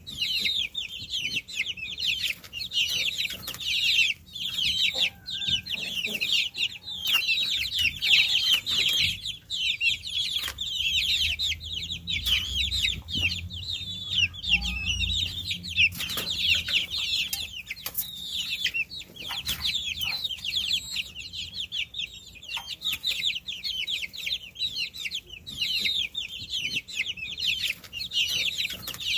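A brood of baby chicks peeping, many short high-pitched chirps overlapping without a break. A faint low rumble comes in for a few seconds near the middle.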